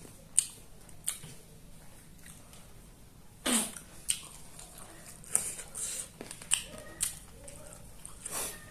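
Close-miked eating sounds: chewing, wet lip smacks and sucking, in irregular short bursts with sharp clicks between them.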